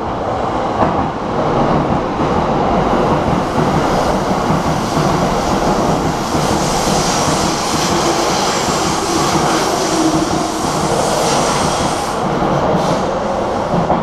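Red-and-white Keikyu electric commuter train running past close alongside the platform: a loud, steady rush of wheels on rail and running gear. It builds over the first couple of seconds, and a higher hiss comes in through the middle as the cars go by.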